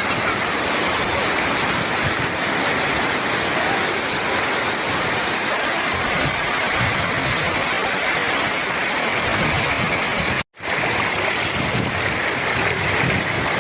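Waterfall rushing in a steady roar of falling water, cut off for a split second about ten seconds in before it resumes.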